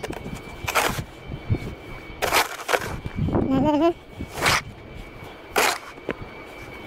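Snow shovel scraping through snow in four short, sharp strokes spaced a second or two apart, with a brief wavering, voice-like cry in the middle.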